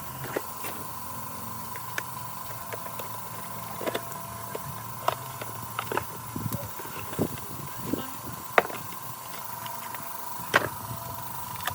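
Irregular sharp knocks and clicks over a steady high-pitched hum. The loudest knocks come about two-thirds of the way through and again near the end.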